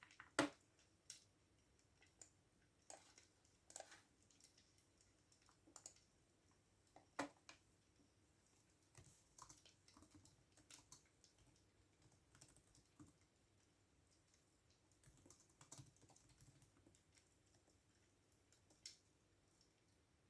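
Computer keyboard being typed on slowly and unevenly: scattered soft key clicks, singly or a few at a time, with pauses between, the loudest one near the start.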